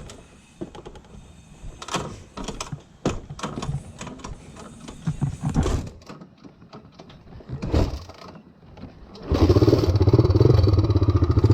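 Satoh S650G tractor engine on a cold start: irregular clicks and knocks while it is being worked to start, then it catches about nine seconds in and settles into a loud, steady run.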